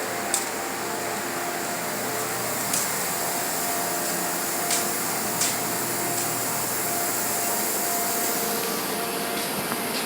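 A small motor running steadily with a constant airy hiss, broken by a few short, sharp hisses.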